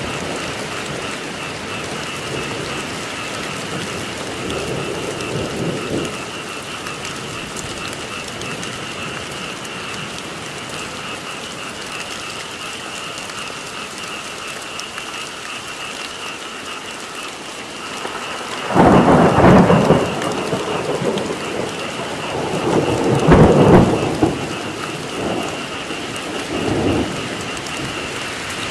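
Steady heavy rain with a continuous high-pitched frog chorus, broken by rolls of thunder: one about two-thirds of the way in and a louder one a few seconds later, with lesser rumbles trailing off near the end.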